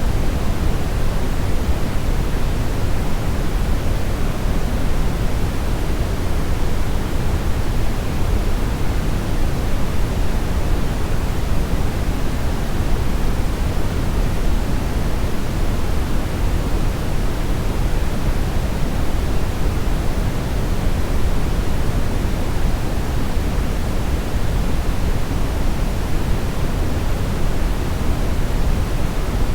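Steady brownish noise: an even, unbroken deep hiss and rumble, heaviest in the low end and thinning toward the treble.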